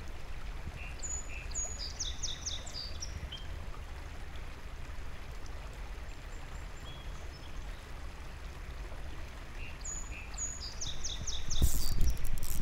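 A songbird sings the same short, high-pitched phrase twice, about a second in and again about nine seconds later: a couple of thin high notes, then a quick run of about six lower notes. Under it is a low, steady outdoor rumble, and a louder rush of wind on the microphone comes up near the end.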